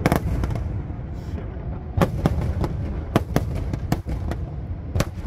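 Aerial firework shells bursting in a display: a string of sharp bangs at irregular intervals, bunched about two, three and five seconds in, over a continuous low rumble from the barrage.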